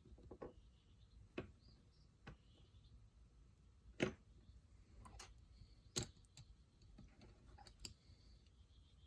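Light, sharp clicks of small die-cast model truck parts being handled, scattered about once a second in near silence, the loudest about four seconds in and another at six.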